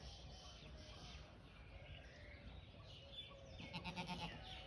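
A goat bleating once, a short wavering call about three-quarters of the way in, over birds chirping and singing throughout.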